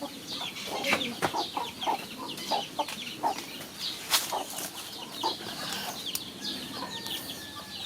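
Chickens clucking with many short, quick calls while they peck at pieces of chopped banana-tree core, with a few sharp knocks among them.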